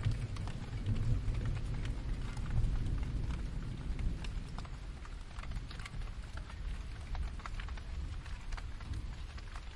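Steady rain with scattered drops tapping. A low, distant thunder rumble dies away over the first few seconds.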